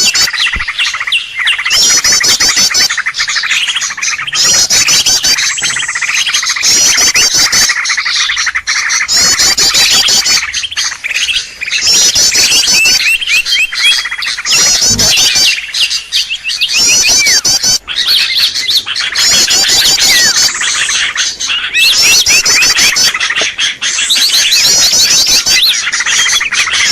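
Bird-lure (pikat) recording of small birds: dense, continuous chirping with a rapid high trill repeating every second or two.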